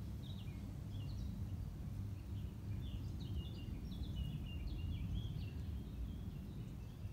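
Small birds chirping and singing in quick short notes, thickest in the middle, over a steady low drone of background noise.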